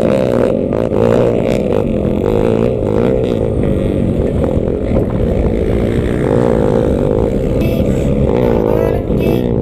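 Motorcycle engines riding off-road, revving up and down with the throttle. At times more than one bike is heard at once.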